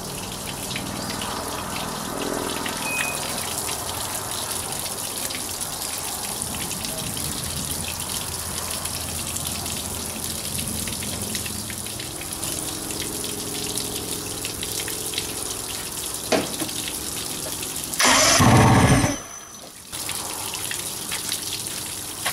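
Garden-hose water running steadily through the outboard's flushing setup. About 18 seconds in, a loud rushing burst lasts about a second.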